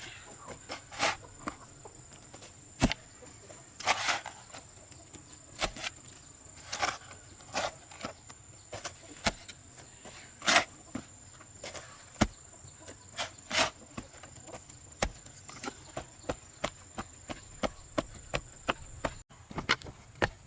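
Irregular sharp knocks, roughly one or two a second, like work with wood, over a steady high insect-like drone.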